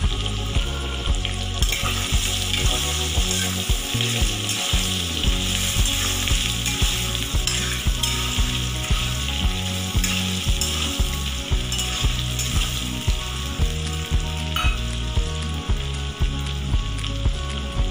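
Potato wedges with crushed ginger and garlic sizzling steadily in hot oil and butter in a kadai, with a metal spatula stirring them. A low beat pulses about twice a second underneath.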